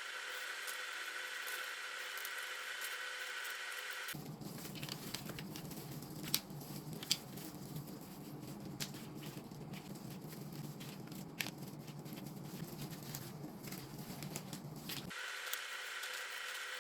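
Home kitchen cooking sounds: a steady hiss for about four seconds, then a stretch of light clicks and knocks, then the steady hiss returns near the end.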